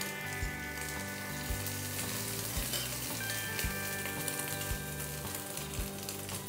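Egg-dipped bread slices frying in oil in a flat pan: a steady sizzle. Background music with a soft beat about once a second plays over it.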